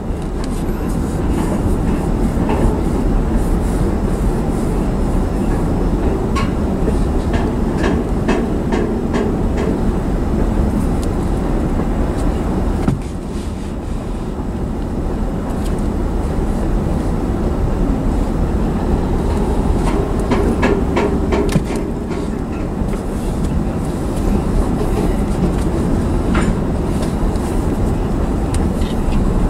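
Covered hopper cars of a freight train rolling past close by: a steady rumble of steel wheels on rail, broken by several clusters of sharp clicking and clacking from the wheels and trucks.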